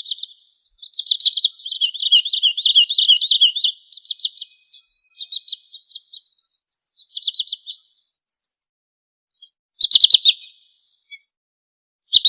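Wood sandpiper calling: rapid trilled runs of short, high, repeated notes, dense for the first few seconds, then shorter runs with gaps, and a loud burst about ten seconds in and again at the end.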